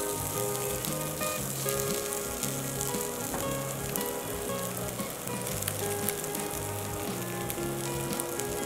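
Soya noodle cutlets shallow-frying in hot oil in a non-stick frying pan, a steady sizzle, with background music playing under it.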